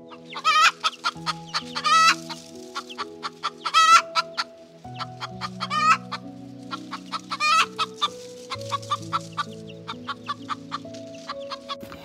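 Hen clucking in quick runs of short clucks, with several longer wavering calls among them, over soft background music with sustained low notes.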